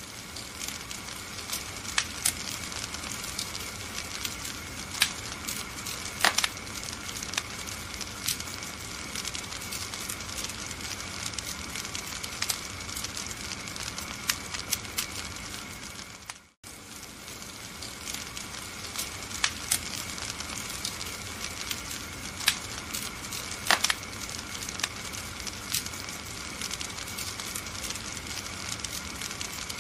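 Wood fire crackling and popping over a steady hiss, with scattered sharp pops. The sound cuts out for an instant about sixteen seconds in, then resumes.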